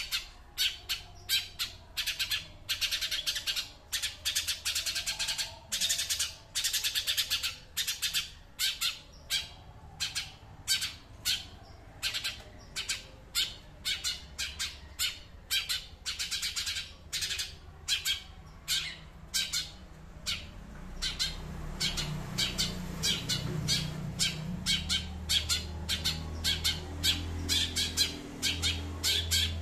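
A songbird calling in a fast, harsh series of short notes, two to three a second, without pause. A low hum comes in underneath about two-thirds of the way through.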